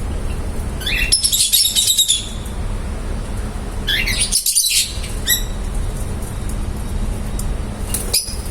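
Lovebirds chirping in short bursts of high, rapid calls about a second in and again about four seconds in, with a few single chirps later, over a steady low rumble.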